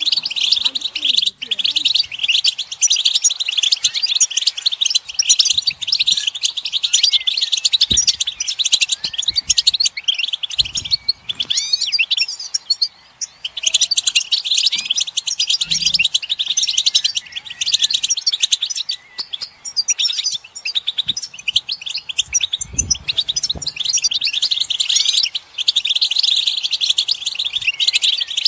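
A group of European goldfinches twittering together in a dense, rapid stream of high chirps and trills, with a brief lull near the middle.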